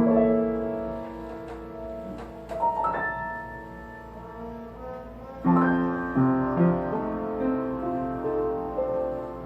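Solo piano playing a slow jazz ballad: a full chord rings out and fades, a few high single notes follow, and new chords are struck about five and a half seconds in.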